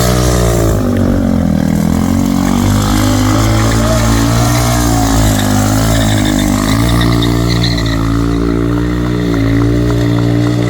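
Motorcycle engine running hard, its pitch rising and falling in several swells as the throttle is worked.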